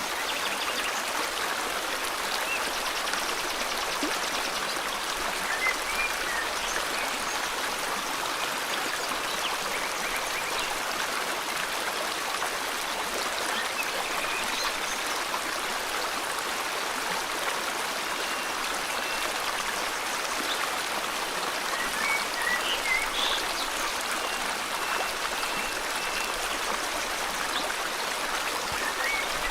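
River water flowing steadily. Faint, brief bird chirps come in every several seconds, more of them in the second half.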